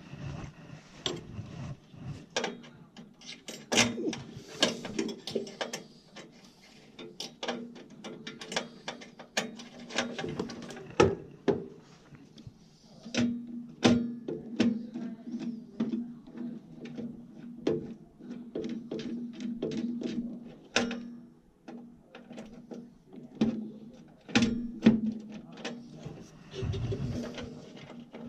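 Hand tools and metal furnace parts clicking and knocking irregularly as the furnace is worked on, over a low steady hum that comes and goes.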